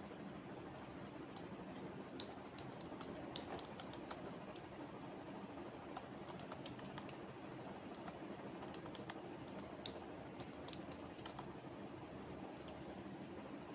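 Computer keyboard typing in quick, irregular runs of keystrokes over a steady low background noise; the typing stops near the end.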